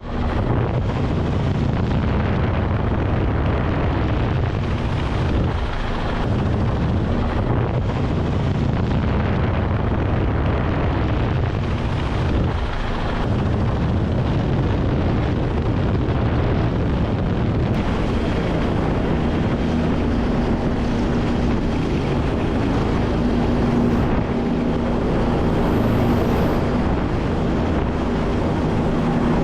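Helicopter running: loud, steady rotor and engine noise, with a steady hum coming up about two-thirds of the way through.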